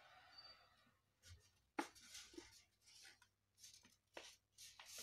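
Faint rustling and crinkling of a sheet of paper being folded and creased, with one sharper crisp crackle about two seconds in.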